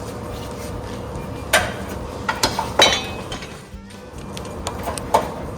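Sharp metallic clinks and knocks, about half a dozen, as a small engine and its steel mounting bracket are shifted into place on a garden tractor's frame, over a steady faint hum.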